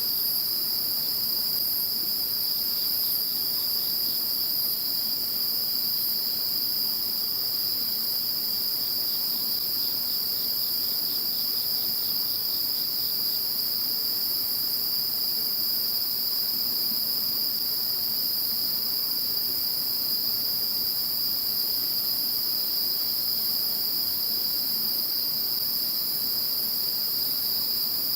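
Chorus of crickets and other insects calling steadily in several overlapping high pitches. A fainter, rapidly pulsed chirp joins briefly a few seconds in and again for a few seconds near the middle.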